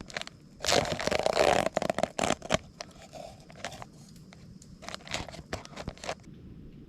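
Crinkly coffee packaging being torn open and handled: a dense burst of tearing and crinkling in the first couple of seconds, then scattered light crackles and clicks that stop about six seconds in.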